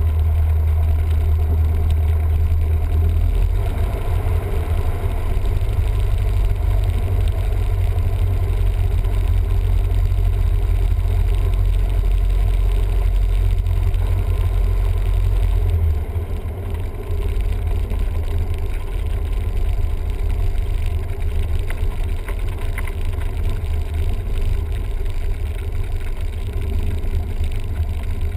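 Cessna 172M's four-cylinder Lycoming engine and propeller running steadily with a deep drone. The note shifts about three seconds in and drops slightly in level a little past halfway.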